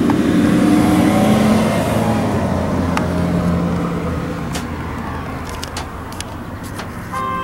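A motor vehicle goes past, its engine sound fading away over several seconds. A horn sounds briefly near the end.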